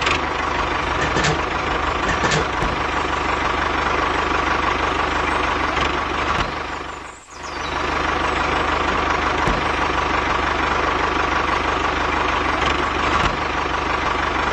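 An engine running steadily, with a brief drop about seven seconds in.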